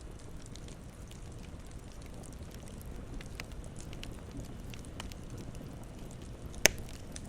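Campfire burning with a low steady rush and scattered light crackles, and one sharp loud pop of the burning wood near the end.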